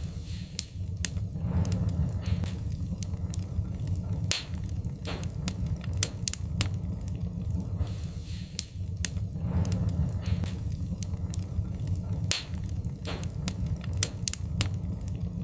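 Wood fire crackling in a fireplace: sharp, irregular pops and snaps over a steady low rumble of burning flames.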